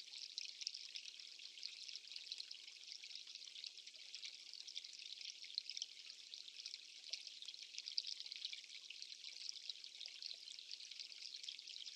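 Steady hiss of running water, with a fine crackle throughout and no pauses.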